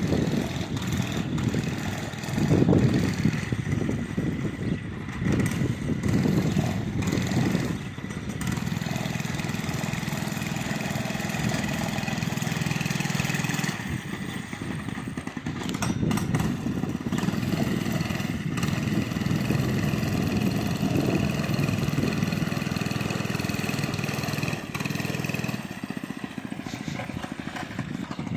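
Mini bike's small gas engine running, uneven and revving over the first several seconds, then settling into a steadier drone from about eight seconds in.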